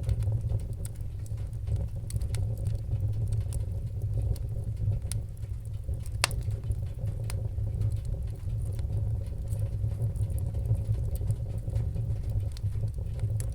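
Wood fire crackling: irregular sharp pops and snaps over a steady low rumble, with one louder pop about six seconds in.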